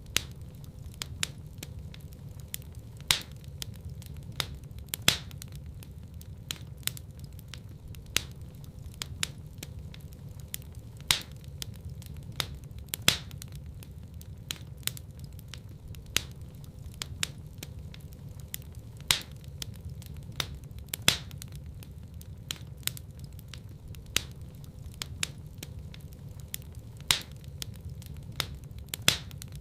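Wood fire burning in a fireplace: a steady low rumble of the flames with sharp crackles and pops from the burning logs at irregular intervals, a few of them much louder than the rest.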